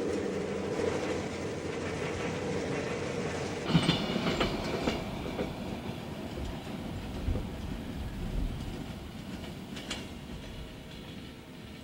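Diesel-hauled freight train passing: a steady locomotive engine drone, then, from about four seconds in, the cars rolling by with wheel clicks and knocks, slowly fading.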